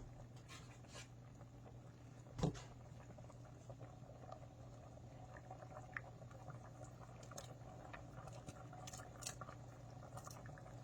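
Faint liquid sounds from a pot of chicken noodle soup as chicken is added and stirred in, with scattered light clicks and one knock about two and a half seconds in, over a steady low hum.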